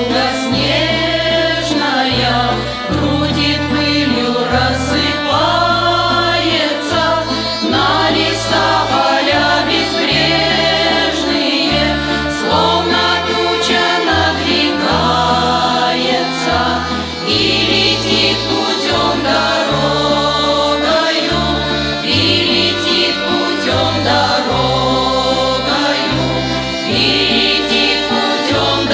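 Song sung by several voices in chorus over instrumental accompaniment, with a low bass line moving in held notes.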